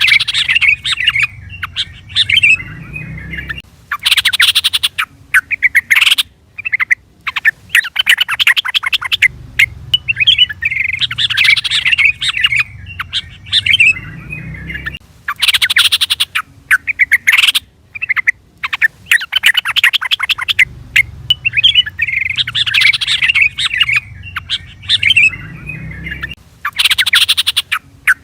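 Yellow-vented bulbul (trucukan) calling: bubbly warbled phrases alternating with loud, harsh chattering bursts. The same sequence repeats in a loop about every eleven seconds.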